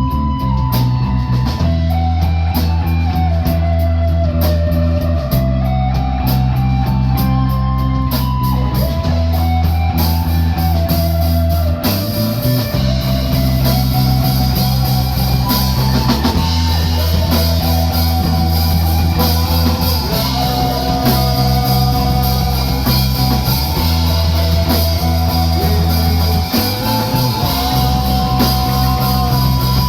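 A rock band playing live, with electric guitar, bass and drum kit. A guitar melody runs over held bass notes, and the drums and cymbals grow fuller about twelve seconds in.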